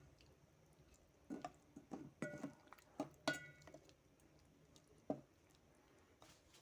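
Kitchen pots and utensils knocking and clinking: a handful of scattered sharp knocks, two of which ring briefly like struck metal cookware.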